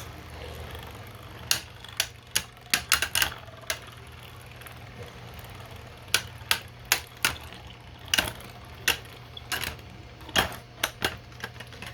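3D-printed Beyblade spinning tops clashing in a stadium: irregular sharp plastic clacks, some coming in quick clusters. A steady low hum runs underneath.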